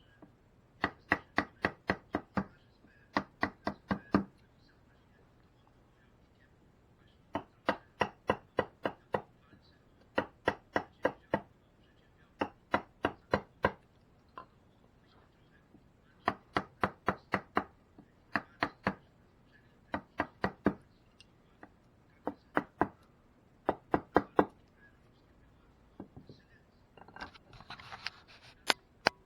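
Carving mallet tapping a chisel into wood in runs of about four to eight sharp knocks, roughly four a second, with short pauses between the runs. Near the end there is a brief scraping sound.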